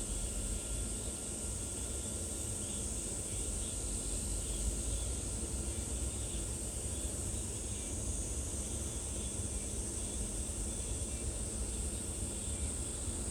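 Steady outdoor ambience: a constant high-pitched insect drone over a low rumble, with faint scattered chirps.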